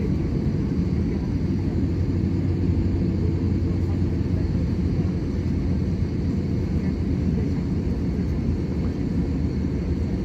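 Steady low rumble of an Airbus A320-200's engines and airframe heard from inside the passenger cabin, holding an even level throughout.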